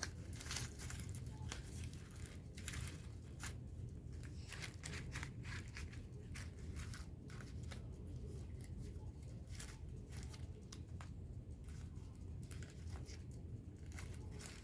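Adhesive tape being pulled and torn, with paper crinkling as a paper puppet is taped, in many short irregular crackles and rasps.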